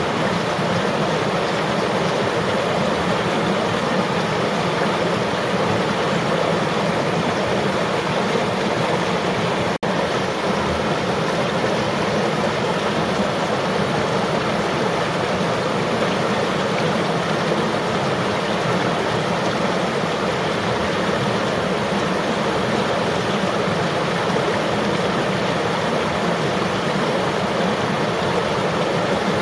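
River water flowing in a steady, even rush. There is a momentary dropout about ten seconds in.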